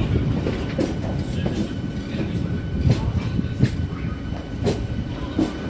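A train running along the track with a steady low rumble, its wheels clacking sharply and irregularly over rail joints.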